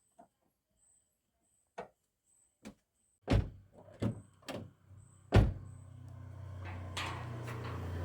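A car door shutting with several heavy thunks, the last and loudest about five and a half seconds in, after a few light clicks of the latch and handle. The door has just been refitted on its hinges, and these closes test whether it now shuts cleanly. A low steady hum starts after the last thunk and grows toward the end.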